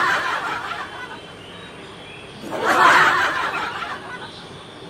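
Laughter in two bursts, one at the start and a second about two and a half seconds in.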